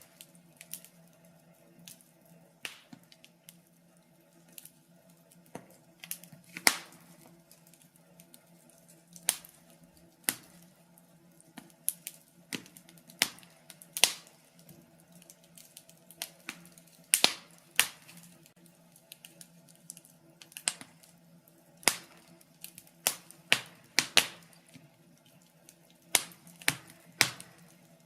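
Wood fire burning in a fireplace, crackling with sharp, irregular pops about once or twice a second.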